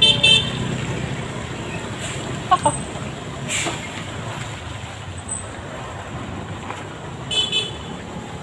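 Two quick high-pitched horn toots, then two more near the end, over the low, steady running of a truck's diesel engine.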